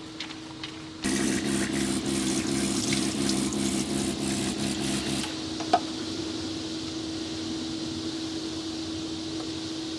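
Water running from a tap for about four seconds over a low pump-like buzz, crackling as it splashes, then cut off. A steady low hum continues underneath, and a single sharp click follows shortly after the water stops.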